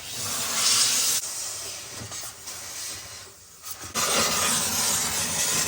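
Handheld steamer hissing as it blows steam onto a frosted-over refrigerator evaporator coil to melt the ice buildup. The hiss breaks off briefly a little past halfway, then starts again.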